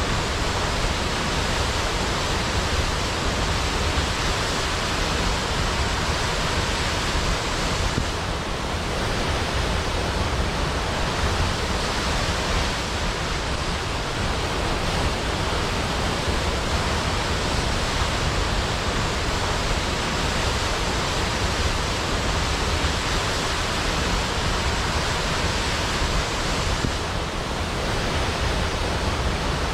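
Large waterfall's continuous rush of water, a steady even noise spread from low to high pitch.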